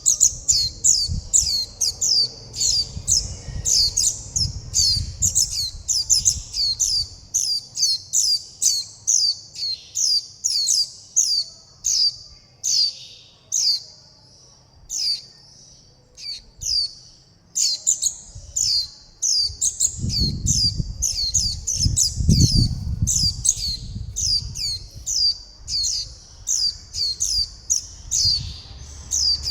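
Juvenile white-eyes calling and begging for food: quick, short, high, falling peeps repeated about two or three a second, thinning out briefly about halfway through. A low rumble runs under the calls at the start and again about two-thirds of the way in.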